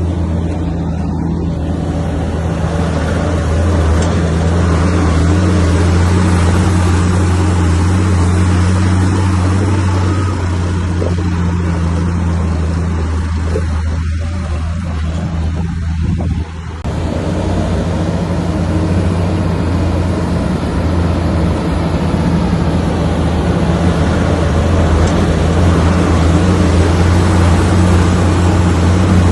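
Komatsu bulldozer's diesel engine running steadily under work, a low even drone, with a brief dip and an abrupt break about two-thirds of the way through.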